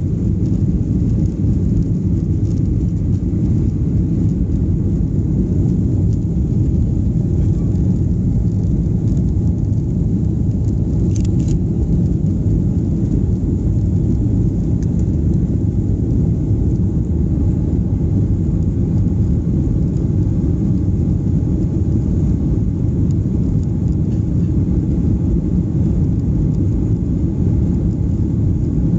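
Steady low rumble inside the cabin of a Boeing 737-800, the noise of its jet engines and airflow, with no change in pitch. There is one faint click about 11 seconds in.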